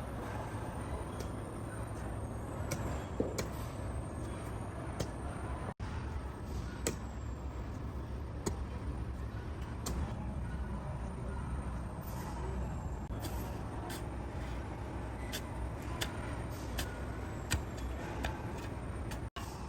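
Factory noise: a steady low machinery rumble with irregular sharp clicks and knocks of metal work on top.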